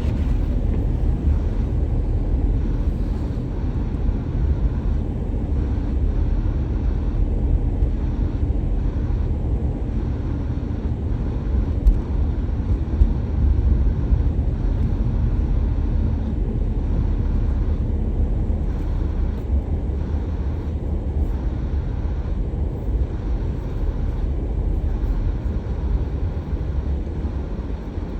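Steady low rumble of a car being driven, engine and tyre noise, with a few brief bumps about halfway through.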